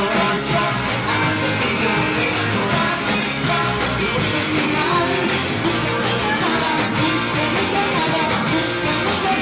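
Live rock band playing loud and steadily: electric guitars over drums, with cymbal strokes keeping an even beat.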